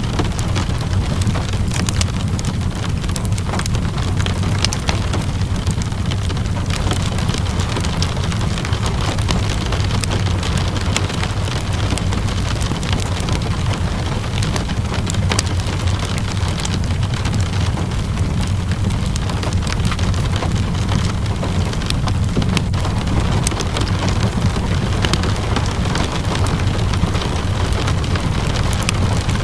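Steady rain mixed with a crackling wood fire: a constant rushing with a low rumble underneath, dotted with many small pops and snaps.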